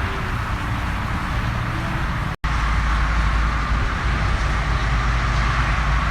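Steady vehicle rumble with a car engine running, cut off for an instant about two and a half seconds in. After the cut it comes back with a deeper low rumble.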